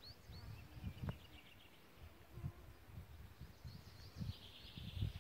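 Faint songbirds chirping, with a rapid trill about a second in and another near the end, over low irregular thumps and rumble.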